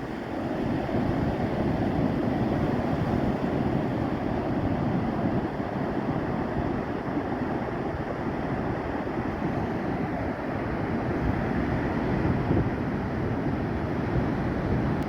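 Ocean surf washing up the beach, mixed with wind rumbling on the microphone, a steady noise throughout.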